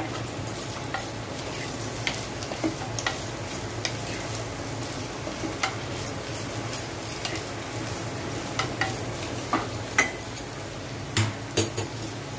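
Sliced bitter gourd sizzling steadily as it shallow-fries in a little hot oil in a pot. A wooden spatula stirs it continuously, with irregular scrapes and taps against the pot that come more often near the end.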